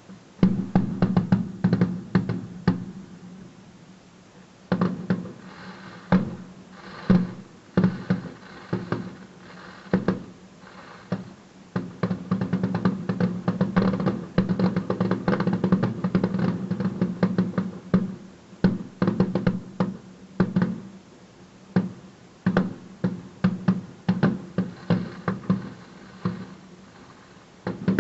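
Fireworks going off in quick volleys of sharp bangs and crackles, densest around the middle, over music playing throughout.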